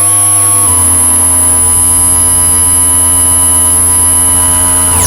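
Two Korg Monotron analog synthesizers holding a loud, steady electronic drone of many stacked tones, with a high thin whine on top. The drone shifts once, about two-thirds of a second in, then holds steady.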